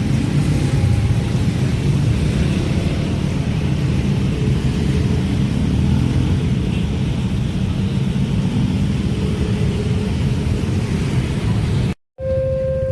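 A long train passing close by: a steady loud rumble of wheels on rail with a hiss above it. Near the end it cuts off abruptly, and steady electronic warning tones of a level-crossing alarm start.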